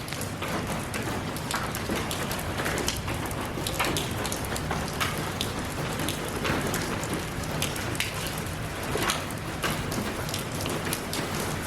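Steady rain falling, with many individual drops pattering on a surface throughout.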